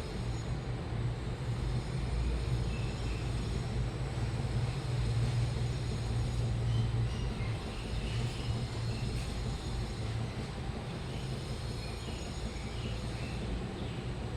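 Washing machine running: a steady low hum with an even rushing noise over it, easing off slightly after about eight seconds.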